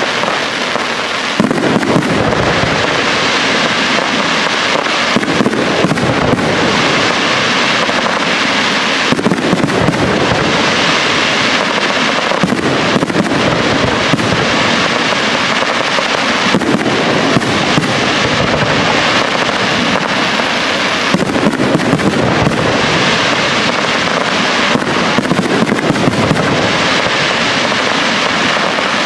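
Aerial fireworks display: shells bursting in a dense, unbroken barrage of bangs mixed with continuous crackling, with hardly a pause.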